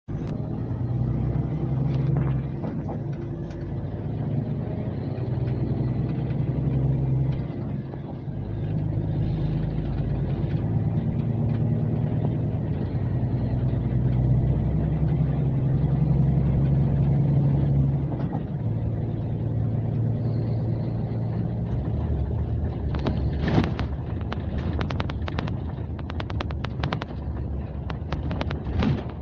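Scania K370C coach's diesel engine running under way, a steady low engine note that steps down in pitch and level about eight seconds in and again about eighteen seconds in. In the last six seconds a run of sharp knocks and rattles sounds over the engine.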